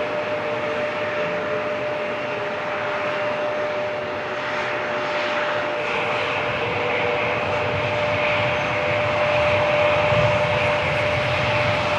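Jet engines of an Airbus A380 on departure: a steady jet roar with a high steady whine, the low rumble growing louder over the last few seconds.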